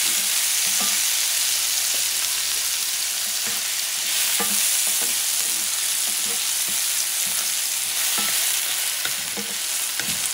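Chopped chayote, onion, bell pepper and garlic sizzling steadily in oil in a cast-iron skillet, while a wooden spatula stirs them and scrapes and taps against the pan.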